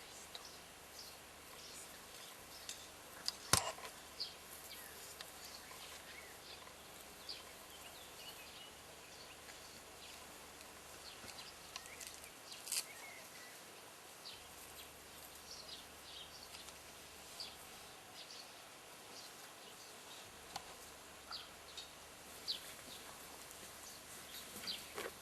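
Faint outdoor ambience with scattered short, high bird chirps and a single sharp click about three and a half seconds in.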